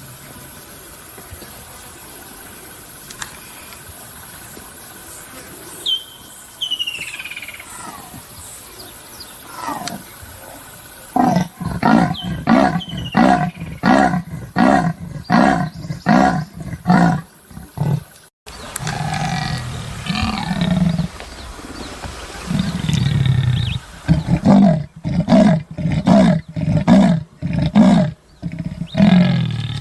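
Leopard's sawing call: runs of evenly spaced grunting strokes, about two a second, starting about a third of the way in. A second bout follows after a break near the middle.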